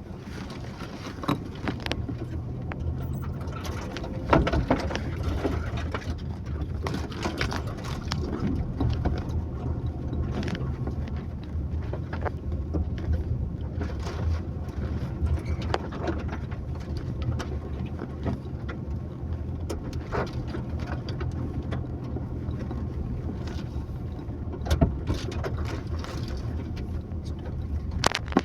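Car driving on a rough village road: steady engine and road noise, broken by frequent short knocks and rattles from bumps.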